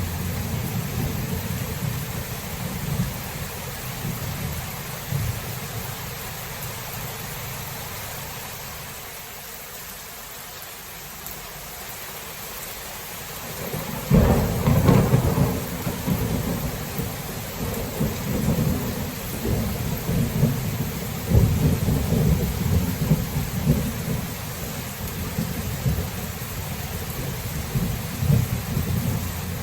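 Thunderstorm with steady rain hissing throughout. Rolling thunder dies away to a lull about a third of the way in, then a sharp thunderclap about halfway through sets off a long rolling rumble.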